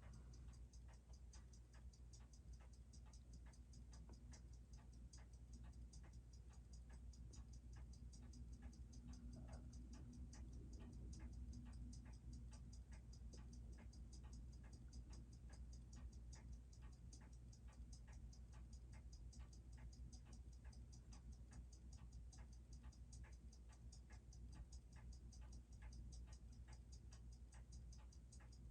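Faint, steady ticking of a freshly serviced Seiko 6R15 automatic watch movement, whose balance hairspring has been reworked, at an even rate of about six beats a second, over a low steady hum.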